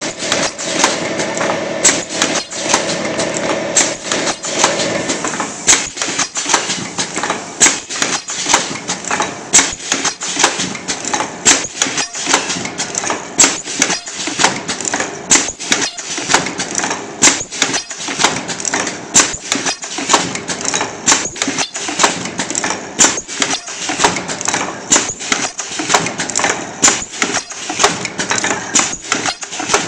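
Automatic ultrasonic mask ear-loop welding machine running, with a fast, uneven train of sharp mechanical clicks and clacks, about two to three a second, over a steady machine hum. A held tone sounds under it for the first five seconds or so, then stops.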